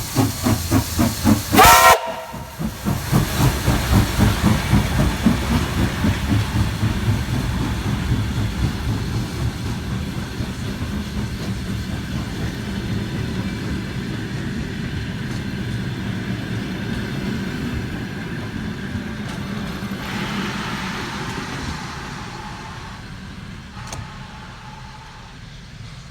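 Steam locomotive pulling away with a train: rapid rhythmic chuffing with steam hiss, a short whistle blast about two seconds in, then the chuffing and the rumble of the rolling carriages slowly fading as the train moves off.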